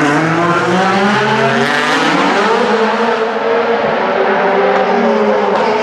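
Several DTM race cars' 4.0-litre V8 engines running and revving, with their engine notes overlapping and rising and falling in pitch.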